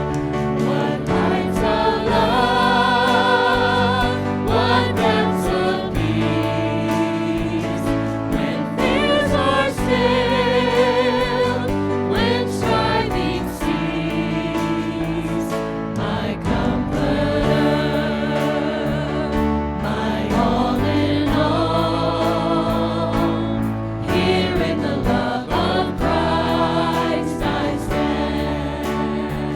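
Voices singing a Christian song with instrumental accompaniment, holding long notes with vibrato.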